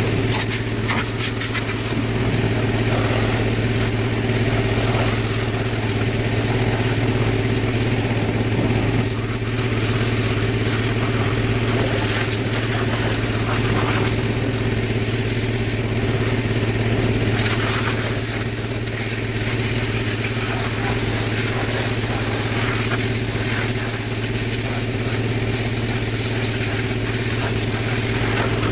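Pressure washer running steadily: a motor hum under the hiss of the water jet as it strips burnt grease off a tractor.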